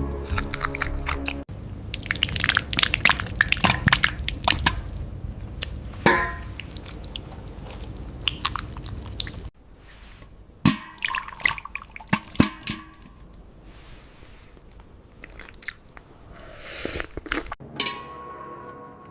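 Close-miked eating sounds: dense wet smacking and clicking, then a sparser, quieter run of clicks after an abrupt cut. Music plays briefly at the start and again near the end.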